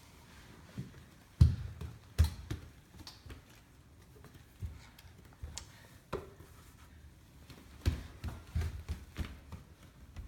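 Irregular knocks and thumps in a small room, the loudest two about one and a half and two seconds in, with fainter ones scattered through the rest.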